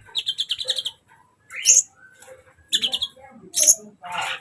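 Kolibri ninja (a small sunbird) singing. Rapid high-pitched trilled phrases alternate with short, sharp falling chips, and a harsher call comes near the end.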